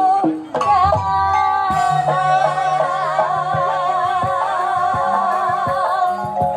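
Banyumasan gamelan music for ebeg dance: a singer's wavering vocal line over sustained melodic percussion notes and drum strokes. It briefly drops out about half a second in, then resumes.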